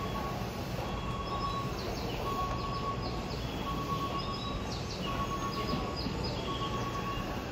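Odakyu 1000-series train hauling the Kuya 31 track-inspection car, rolling slowly toward the platform with a low, steady rumble. Over it an electronic beep repeats about every second and a half, with scattered high chirps.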